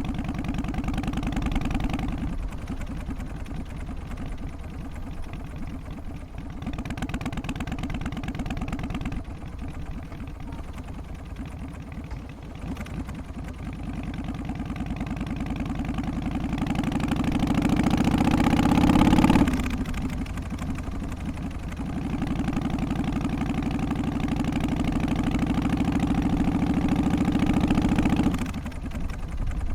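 Harley-Davidson FXST Softail's Twin Cam 88 V-twin engine running, with a couple of short louder stretches early on. Its pitch climbs steadily to a peak about two-thirds through, then drops suddenly. It then holds a steady louder run that falls back near the end.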